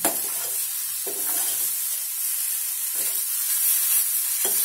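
Grated carrot sizzling in a stainless steel pan as a spoon stirs it, a steady frying hiss with a few scraping strokes of the spoon against the pan. The carrot is fully sautéed.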